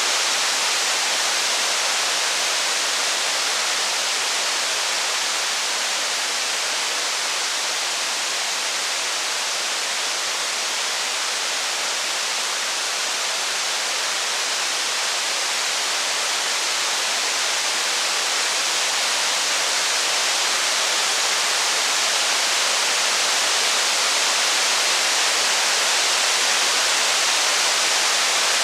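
Steady, heavy rain: a constant, even hiss with no separate drops, thunder or fire crackles standing out.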